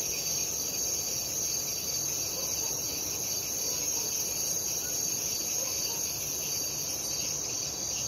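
Night chorus of crickets trilling in a dense, steady, high-pitched wall, with a faster pulsing layer below it and faint scattered frog calls underneath.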